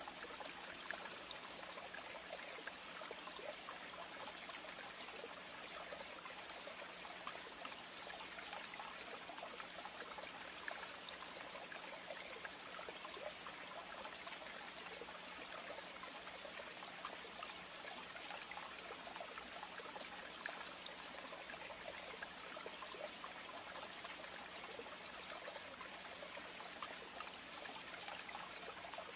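Faint, steady trickling of water: a continuous hiss dotted with small patters, with no breaks.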